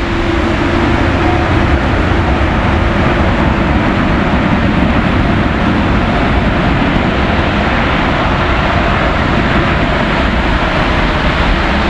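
Boeing 787 Dreamliner on final approach: a loud, steady rush of jet engine and airframe noise, building slightly about a second in.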